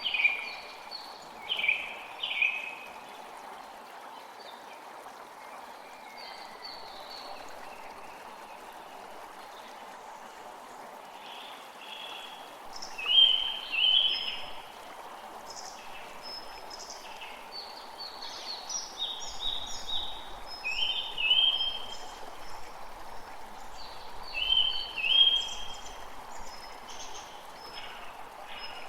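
A creek running steadily, with small birds chirping over it in several short bouts; the chirps are the loudest sounds.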